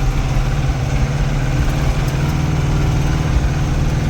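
Case 844 XL Plus tractor's diesel engine running steadily, heard from inside the cab while driving.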